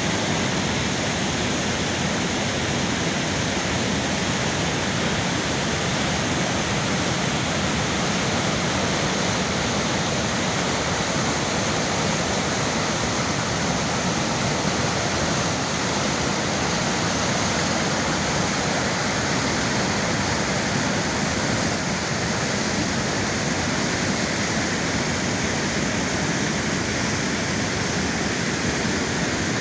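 Girvas waterfall's water rushing steadily and continuously.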